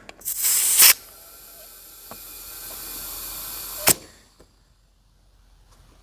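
Compressed air hissing from an air chuck into a tractor tire's inner tube: a loud blast of air for about half a second, then a steadier hiss. It ends in a sharp click about four seconds in.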